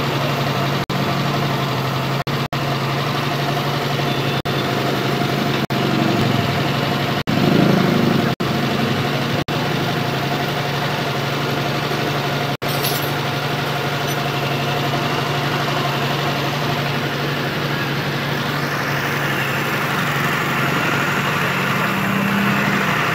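Daihatsu Espass 1.6's carburetted engine idling steadily, running on a distributor swapped in from another Espass to test whether the distributor causes its intermittent rough running.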